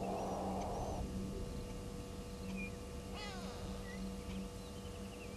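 Unidentified wild animal sounds: a breathy hiss lasting about a second at the start, then a quick cascade of falling calls about three seconds in, over a steady low hum.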